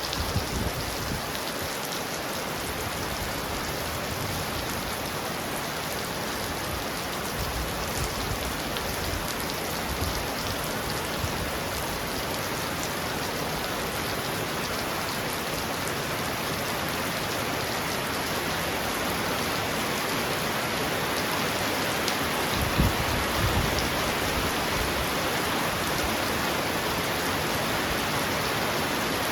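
Heavy rain pouring steadily on a roof, a dense even hiss. About 23 seconds in a brief low rumble swells under it.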